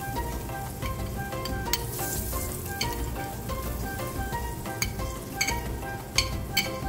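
Curry powder and freshly added ginger sizzling in hot oil in an aluminium pot, the Jamaican step of 'burning' the curry in the oil. A few sharp clicks come through the steady sizzle.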